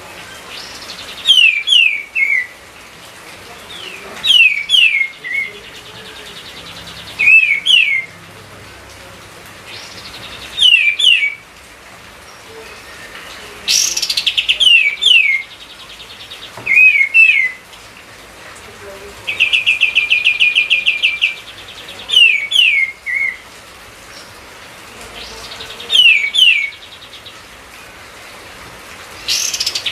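Kapas tembak songbird singing: short phrases of two or three quick, loud whistles sliding downward, repeated every few seconds, with a rapid stuttering trill twice around the middle. A faint steady hiss lies underneath.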